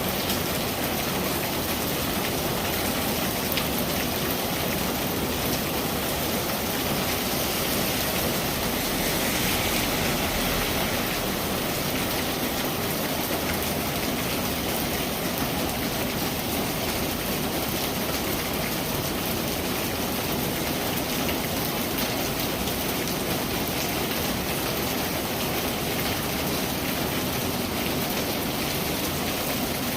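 Steady rain falling, a dense even hiss of drops striking a surface.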